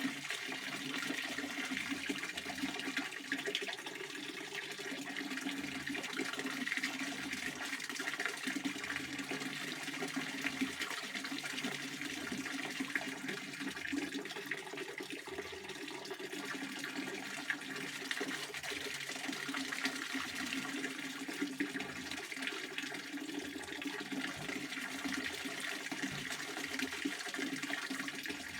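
Pond water fountain splashing steadily onto the water surface, an unbroken rushing spatter.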